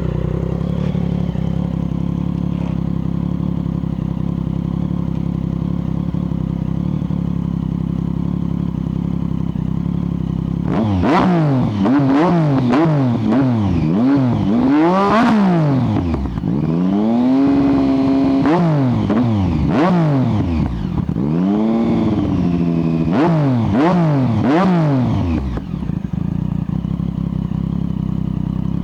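2012 Triumph Speed Triple's 1050 cc three-cylinder engine through shortened Mivv Suono slip-on exhausts, idling steadily. About eleven seconds in it is revved in a run of quick throttle blips, held at higher revs briefly, blipped again, and then drops back to idle near the end.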